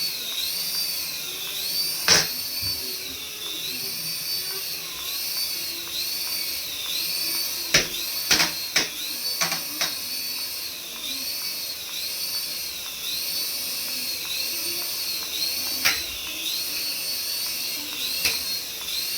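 High-pitched electronic warbling tone from a battery-powered toy, rising and falling about once a second, with a few sharp clicks, several close together about halfway through.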